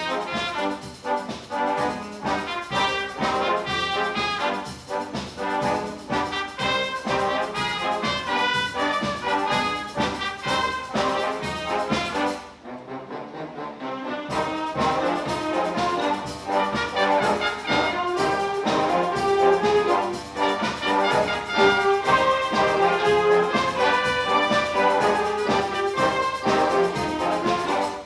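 Concert wind band playing, brass to the fore, with a brief thinner, quieter passage about halfway through before the full band comes back in.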